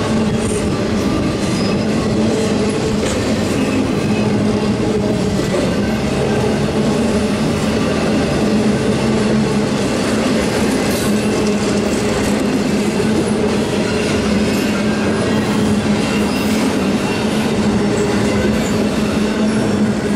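Intermodal freight train's spine flatcars, loaded with highway trailers, rolling steadily past: a continuous rumble of steel wheels on rail with a low droning hum and occasional clicks from the rail joints.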